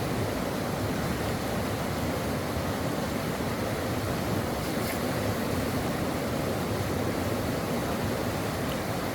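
Stream water flowing, a steady even rushing.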